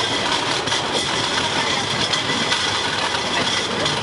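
A moving passenger train running, heard from inside the carriage at an open window: a steady, even running noise with no breaks.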